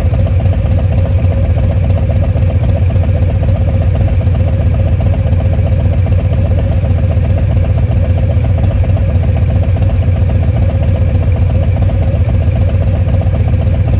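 2021 Harley-Davidson Fat Boy's Milwaukee-Eight 114 V-twin idling steadily through a Bassani Pro Street turnout exhaust, a loud, even low pulsing with no revving.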